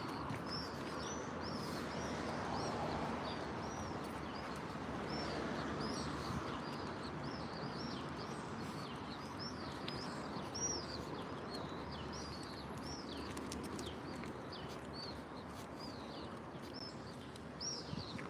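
Small birds chirping over and over, about two short chirps a second, over a steady rushing background noise.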